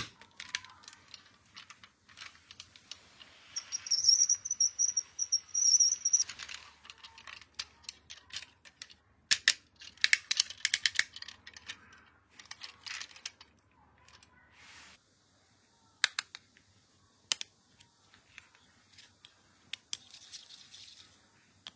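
Toy packaging and small plastic toy parts being handled during an unboxing: scattered light clicks and taps, with a rapid rattling stretch lasting about two seconds, starting around four seconds in.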